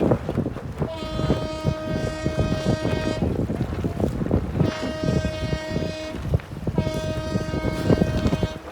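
Three long horn blasts, each lasting one and a half to two seconds, with short gaps between, over steady wind noise.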